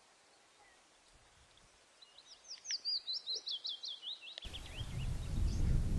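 A songbird sings a quick run of high, down-slurred notes, the run stepping lower in pitch as it goes, starting about two seconds in after near silence. Near the end a low rumbling noise cuts in abruptly.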